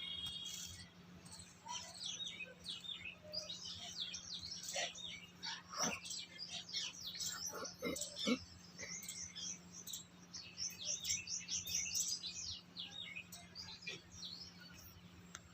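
Small birds chirping, many rapid short high calls overlapping throughout, over a faint steady hum.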